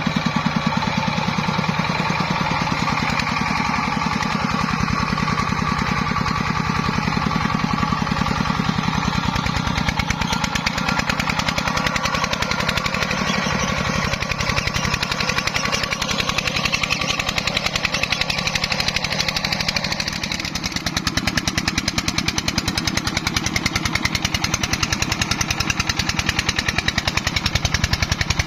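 Single-cylinder diesel engine of a công nông farm truck running with a fast, even chugging. About two-thirds of the way through it dips briefly, then runs a little louder.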